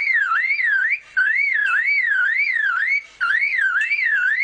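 Superb lyrebird mimicking a car alarm: a loud whistled siren that sweeps up and down a little over twice a second, broken by two short pauses.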